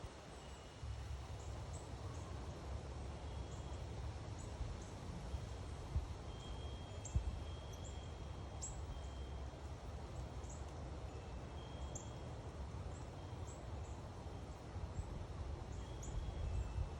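Small birds chirping, with many short, high calls scattered throughout and a few brief whistled notes, over a steady low rumble.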